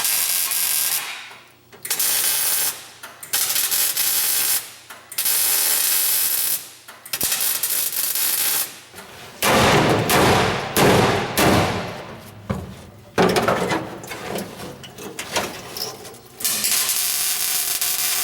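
Welder laying short welds on rust repair strips in car sheet metal: a crackling hiss in bursts of a second or two, each starting and stopping sharply. A louder, rougher stretch with knocks comes through the middle, and a longer run of hiss comes near the end.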